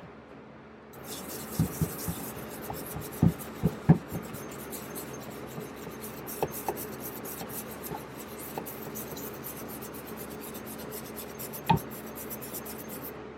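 Wire brush scrubbing a thick crust of deposits off the valves of a Honda TRX250EX cylinder head: a steady scratchy rasping of quick strokes, with a few sharp knocks.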